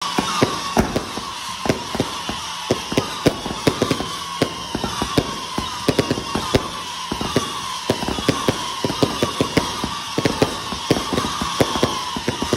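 Fireworks and firecrackers going off in rapid, irregular cracks and bangs, with a faint falling whistle recurring every second or so.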